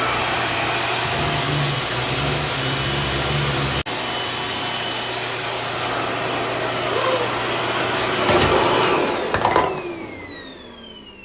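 RevAir reverse-air hair dryer running steadily with a vacuum-like rushing hum, a brief break about four seconds in, then switched off about nine seconds in and winding down with a falling whine.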